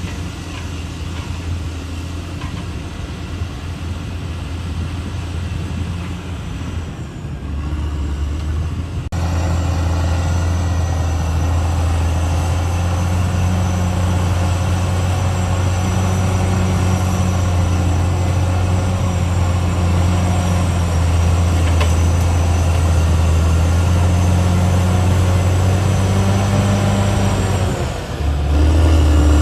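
Caterpillar D6R XL bulldozer's diesel engine running with a steady deep drone, stepping up suddenly and getting louder about nine seconds in, with a brief dip near the end.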